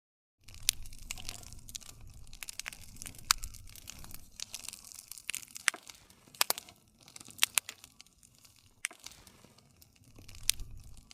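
Wood campfire crackling, with scattered sharp pops over a steady hiss and low rumble of burning. The sound comes in about half a second in and cuts off suddenly at the end.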